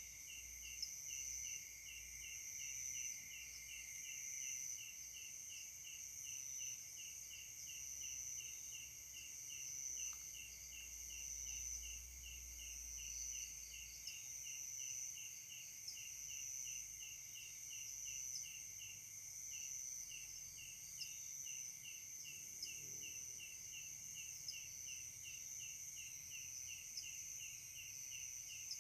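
Night insect chorus: crickets or similar insects, one pulsing evenly about three times a second over a steady high-pitched trill from others.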